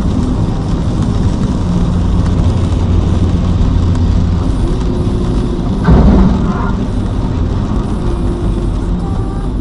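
Car driving, with steady low road and engine rumble. A sudden, louder noise breaks in about six seconds in and lasts under half a second.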